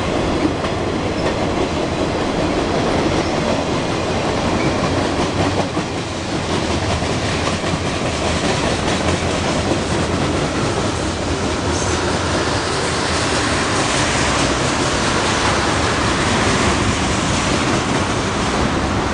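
Freight train cars rolling past at close range: a steady rumble and clatter of steel wheels on the rails as flatcars give way to tank cars. A higher rushing hiss builds in the second half.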